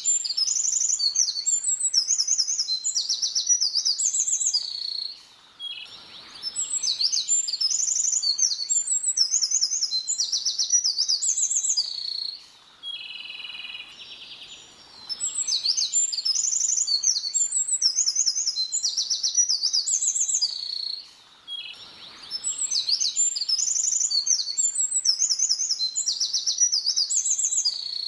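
A small songbird singing a long, fast song of rapid high trills and sweeping notes, repeated four times in phrases of about five to six seconds with short pauses between them.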